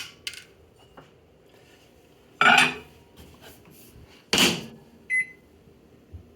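Two loud clunks as the microwave is handled, then a short electronic keypad beep about five seconds in.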